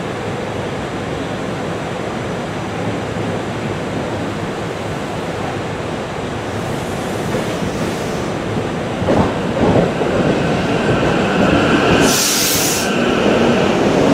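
SEPTA regional rail electric commuter train moving through the station with a steady rumble of wheels on rail. Near the end a thin steady wheel squeal sets in, and about twelve seconds in there is a short burst of air hiss.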